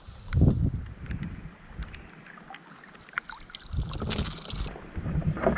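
Wind buffeting a camera microphone in gusts, with scattered small ticks and a brief hiss about four seconds in.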